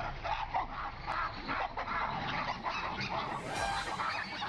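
A troop of baboons calling in a rapid run of short, repeated cries, as they mob a cornered animal.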